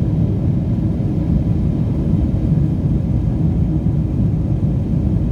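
Steady low rumble of an airliner's engines and airflow as heard inside the cabin in flight.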